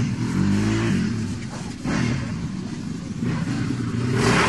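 Motocross bike engine revving up and down repeatedly, with a harder rev near the end.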